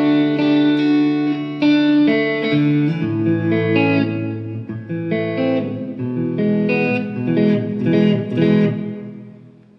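Chibson electric guitar played through a '65 Deluxe amp: a run of ringing chords and picked notes that fades out near the end. The stock Orphee strings don't have much tone to them.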